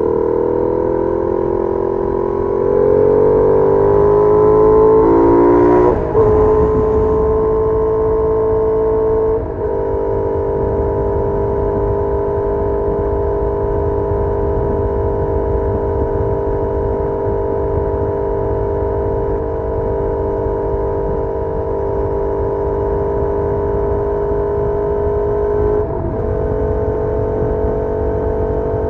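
Benelli Leoncino 800's parallel-twin engine through its stock exhaust, rising in pitch under acceleration, then breaking off briefly twice, at about six and nine seconds, as it shifts up, and settling into a steady cruise. Wind rumble runs underneath.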